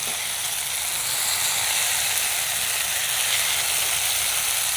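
Pieces of fish and potato frying in oil and roasted masala in a pan: a steady sizzle.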